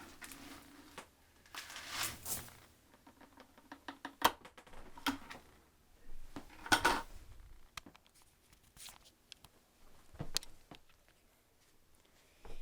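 Dry test debris (pet litter, Timothy hay and pet hair) being tipped out and scattered onto the floor: irregular light clicks and rattles with short rustling pours, the longest about two seconds in and near seven seconds.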